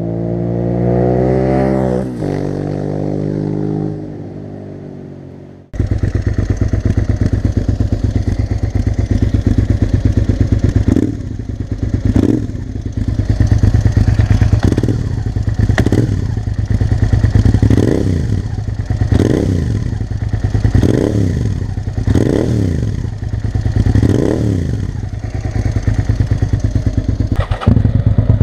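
Suzuki SV650S 645 cc V-twin through a Delkevic 350mm stainless steel slip-on exhaust. For the first few seconds an engine note drops in pitch and fades. After a sudden cut the bike is idling with a steady pulsing beat, and from about a third of the way in it is blipped about ten times, each rev rising and falling quickly back to idle.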